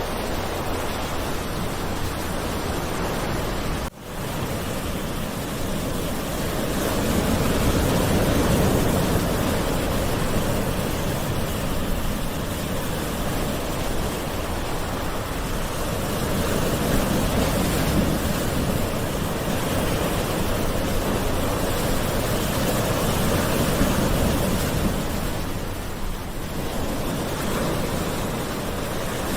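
Gentle ocean surf: a steady wash of waves that swells and eases slowly every several seconds, with a brief break in the sound about four seconds in.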